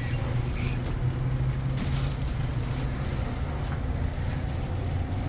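Steady low rumble of a running vehicle, an even drone without clear changes.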